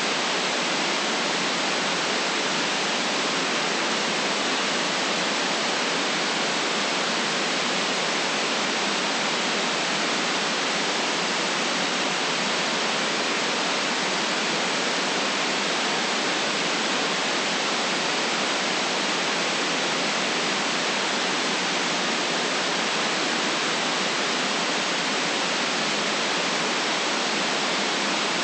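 Steady, unchanging electronic white noise: an even hiss with no events, cut off above about 8 kHz and thin in the lows.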